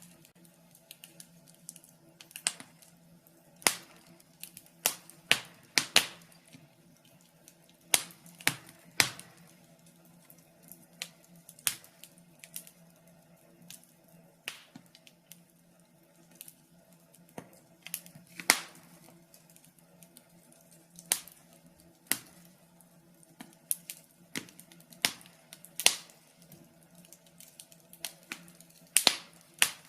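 Wood fire crackling in a fireplace: sharp, irregular pops and snaps, from about half a second to two seconds apart.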